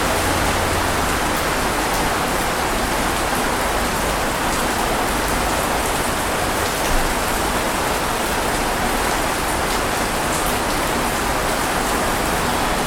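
Steady rain falling, a dense even hiss with scattered sharper drop ticks and one slightly louder tap about seven seconds in.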